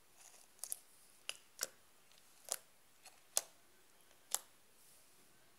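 Slime with beads mixed in being worked by hand, giving sharp popping clicks, about eight at irregular intervals.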